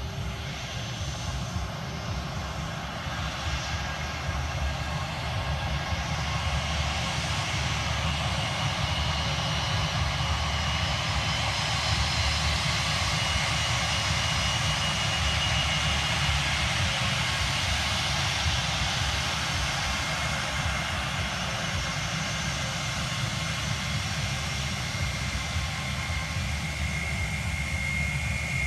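Passenger aircraft engines running, a steady rush with a faint high turbine whine. It swells gradually to its loudest around the middle and eases a little toward the end.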